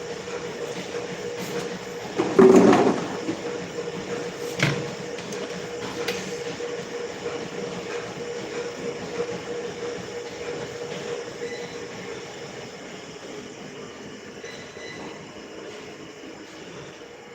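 Steady running noise of a vehicle with a steady hum. A louder rasping burst comes about two and a half seconds in and a sharp knock a couple of seconds later, and the noise fades gradually through the second half.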